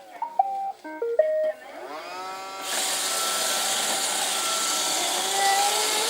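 Roomba robot vacuum playing its short beeping start-up tune, a quick run of notes at different pitches. Its motors then spin up and it settles into a steady running noise.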